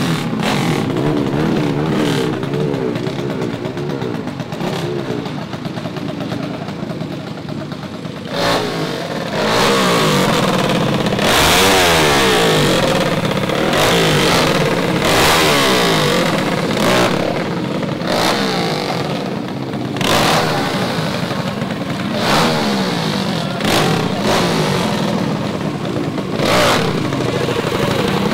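Mini bike engine running and revving up and down repeatedly, getting louder about eight seconds in, with several sharp bursts of hard throttle.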